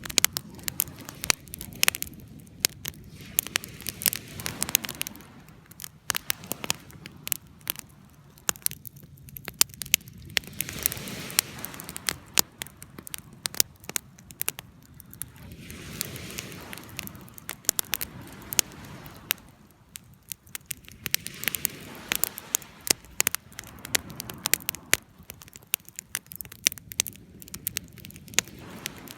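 Wood fire crackling and popping with frequent irregular sharp snaps over a low rush of flames that swells and eases every few seconds.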